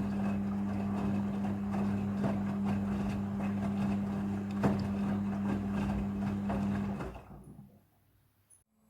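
Front-loading washing machine running: a steady motor hum with irregular knocks as the drum tumbles a blanket. About seven seconds in the motor stops and the sound dies away.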